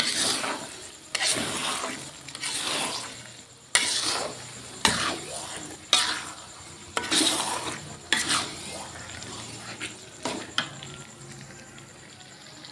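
Blended Balinese spice paste (bumbu Bali) sizzling in oil in a metal wok while a metal spoon stirs it, scraping the pan in strokes about once a second that become fewer toward the end. The paste is being fried over medium heat until fully cooked, with its oil already separating out.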